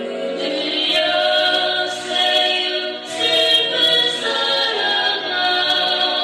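A woman singing a slow song with held, gliding notes over backing music.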